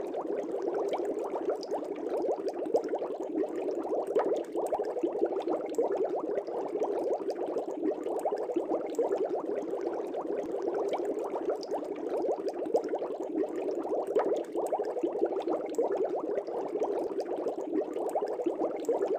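Air bubbles streaming up through the water of a fish tank, a dense, steady bubbling that does not let up.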